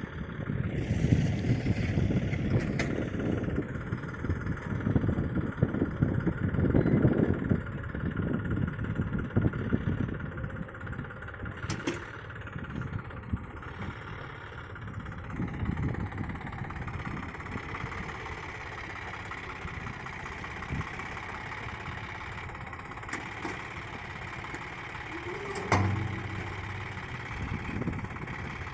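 Tractor engine running, louder and uneven for the first ten seconds or so, then settling to a steadier, quieter idle.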